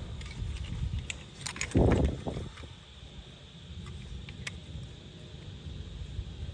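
Metal Zippo lighters being handled: scattered light clicks and clinks, with one louder dull thump about two seconds in, over a steady low hum.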